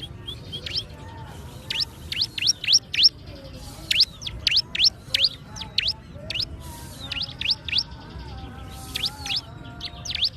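Ciblek gunung, a prinia, singing: quick runs of sharp, steeply rising whistled notes, several a second, with short pauses between the runs.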